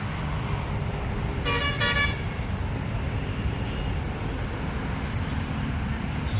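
Two short vehicle horn toots about a second and a half in, over steady cricket chirping and a low rumble.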